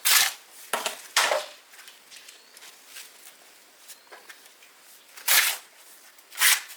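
Short rough scraping strokes, each about a third of a second long. Three come in the first second and a half, and two more near the end, like a hand tool scraping over a gritty surface.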